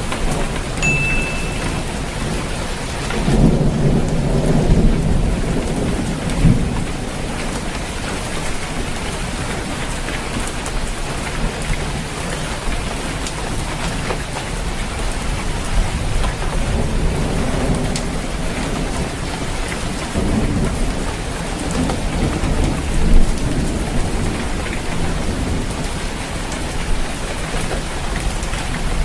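Steady rain falling on a roof, with low thunder rumbling about four seconds in and again around the middle.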